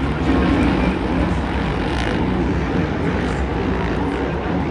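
Dirt bike engines racing on a supercross track, a dense, steady engine sound with pitches wavering up and down as the riders work the throttle.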